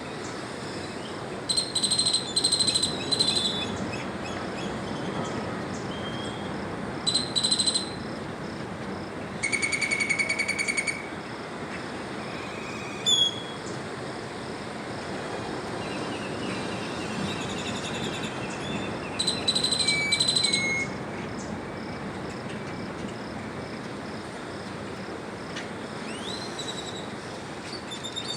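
Birds calling at dawn: several short bouts of quick high chirps, one longer buzzy call about ten seconds in, and a few single notes, over a steady background hiss.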